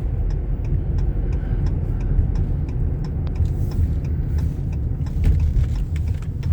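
Car interior while driving: a steady low rumble of engine and road, with a light, quick ticking running over it.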